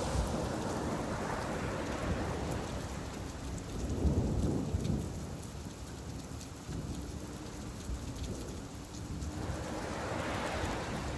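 Steady rain falling, with deep rumbles swelling and fading, the loudest about four seconds in and another near the end.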